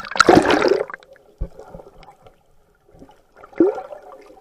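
Sea water splashing and gurgling, loudest in the first second, with a sharp knock about a second and a half in and another near the end.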